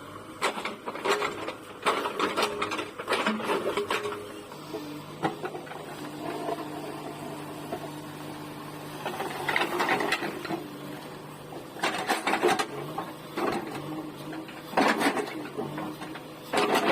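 JCB 3DX backhoe loader's diesel engine running steadily, with repeated loud bursts of clattering and scraping as brick rubble is worked. There is a cluster of these bursts in the first four seconds, a quieter stretch where the engine alone hums, then separate bursts about ten, twelve, fifteen and seventeen seconds in.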